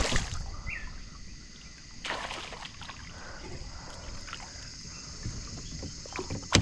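Water swishing and knocking around a plastic kayak as the paddler moves and handles gear, with two louder swishes, one at the start and one about two seconds in. A steady high-pitched hum runs in the background.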